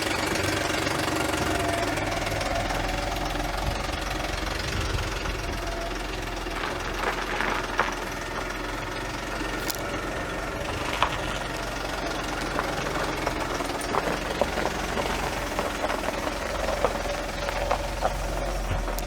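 Audi A8 D3 engine idling with a knocking clatter, which the owner suspects comes from a broken cam phaser (VVT adjuster) in the cylinder head he repaired. Now and then a sharper click stands out.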